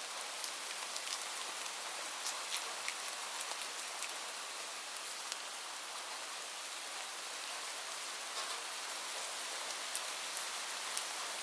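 Steady rain falling, an even hiss with scattered sharp drops pattering close by.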